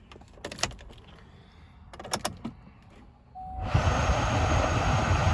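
Key clicks and rattles in the ignition, a short tone, then about three and a half seconds in the 2007 GMC Acadia's 3.6-litre V6 cranks and starts, running much louder than the clicks.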